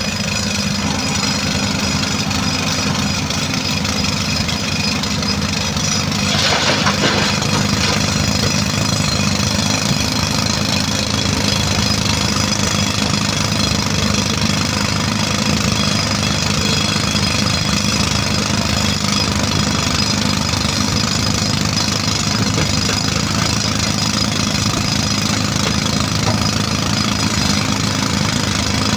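A diesel engine of the quarry machinery, a tractor or the excavator, runs steadily and knocks evenly. About six and a half seconds in there is a brief, louder, noisier burst.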